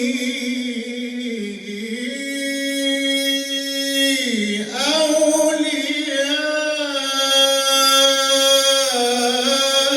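A male reciter's voice chanting Quran recitation in a slow melodic style, holding long drawn-out vowels. The pitch dips twice and climbs again.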